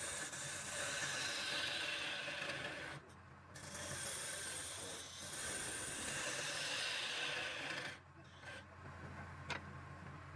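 Wood lathe motor humming steadily while something rasps against the spinning wood in two long passes, the first about three seconds and the second about four. The rasping drops to a lighter hiss for the last couple of seconds, with a single click near the end.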